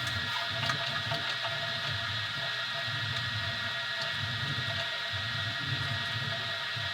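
Easythreed X2 desktop 3D printer running a print: its stepper motors drone in short, irregular spells as the print head moves, over a steady high hum.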